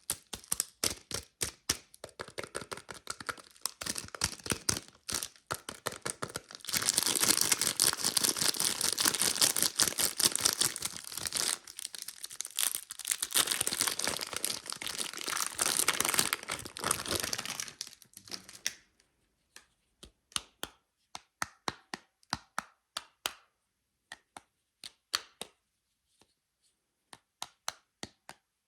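Soap wrapper being torn open and crinkled: crackling at first, then a long, dense stretch of tearing and crinkling, then scattered light taps and clicks near the end.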